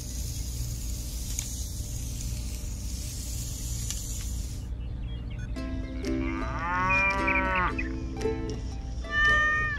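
A wooden stick scratching a line through fine sand for the first few seconds. Then background music with a long animal call that rises and falls in pitch, and a shorter, louder call near the end.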